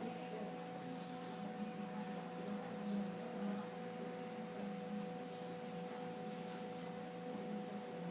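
Steady electrical hum: two constant whining tones over a lower wavering drone, unbroken throughout.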